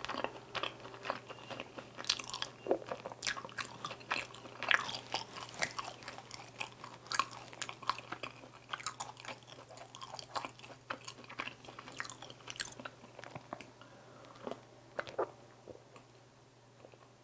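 Close-up mouth sounds of chewing a mouthful of sweet-glazed crispy fried chicken (dakgangjeong): wet clicks and crunches, dense at first and thinning out in the last few seconds, over a low steady hum.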